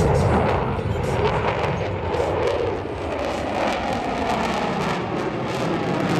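Jet noise from an F/A-18 Super Hornet flying its display, a loud steady rush that eases a little about halfway through and builds again near the end.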